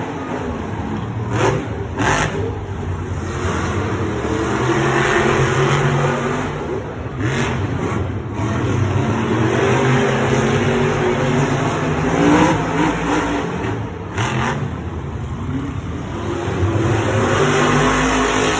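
Monster truck engines revving hard and easing off in waves, with several sharp cracks or bangs scattered through it.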